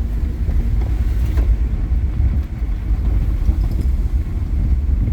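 Lifted Jeep driving, heard from inside the cab: a steady low rumble of engine and road noise.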